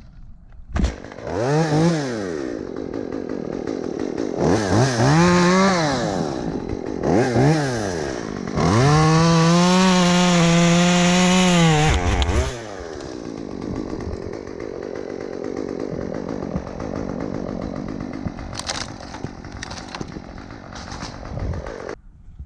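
Two-stroke chainsaw revved up and down three times, then held at full throttle for about three seconds, then running more quietly until it stops abruptly near the end.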